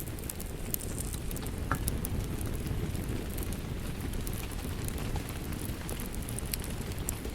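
Wood fire crackling in a fireplace, with frequent small sharp pops, over the steady hiss and low rumble of rain.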